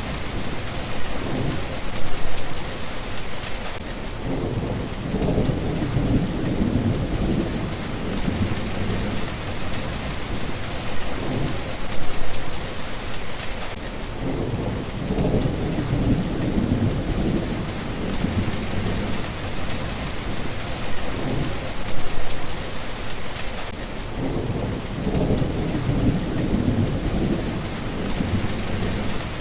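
Steady heavy rain with low rumbling swells, like rolling thunder or gusts of wind, rising and fading. The same pattern comes round about every ten seconds, as in a looped rain recording.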